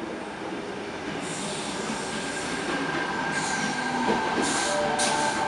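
Suburban electric passenger train running in alongside the platform, growing steadily louder. High steady wheel squeal and bursts of hiss take over in the second half.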